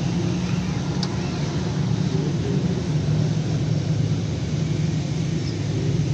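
Suzuki Mehran's small three-cylinder petrol engine idling steadily, with a faint click about a second in.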